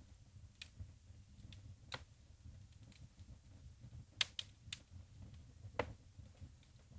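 Logs burning in a wood fireplace: a soft low rumble of flame with scattered sharp crackles and pops, including a quick cluster of three about four seconds in.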